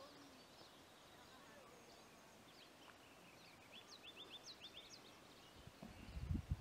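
Wild songbird calling outdoors: scattered short, high chirps, then a quick run of sharp sweeping notes a few seconds in, over faint open-air background. Near the end, low rumbling bumps break in and become the loudest sound.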